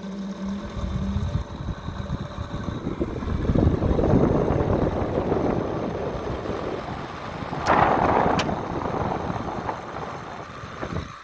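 GE window air conditioner's fan starting up on low and running with a steady rattle, which the owner guesses comes from bad bearings. Two sharp clicks about eight seconds in, and the sound falls away suddenly at the end.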